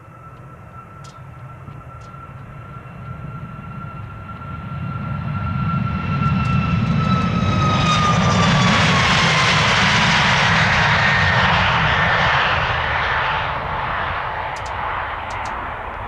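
Boeing 737 MAX 8's CFM LEAP-1B turbofan engines at takeoff thrust going past: the jet noise builds to a loud peak partway through, then fades, and the engine whine drops in pitch as the aircraft passes.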